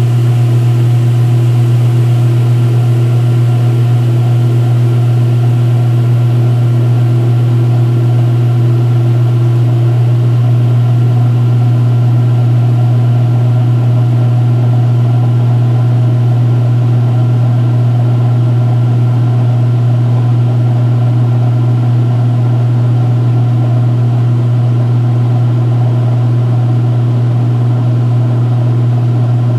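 2016 Speed Queen agitator washer in its spin-drain stage, the tub spinning with a loud, steady hum. A higher tone above the hum stops about ten seconds in.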